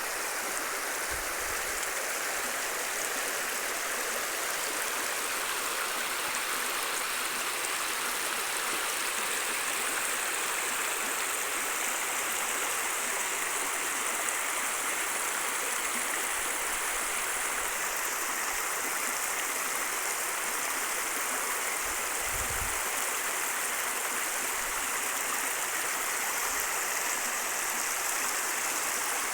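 Stream water flowing steadily, a continuous rushing hiss, with a few faint dull low bumps along the way.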